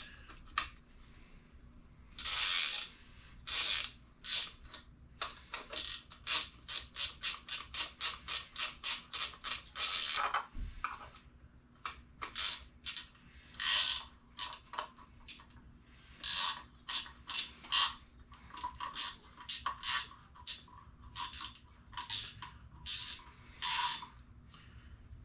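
Hand socket ratchet wrench clicking in runs of quick, even strokes, with short bursts in between, as bolts are run down on an engine block.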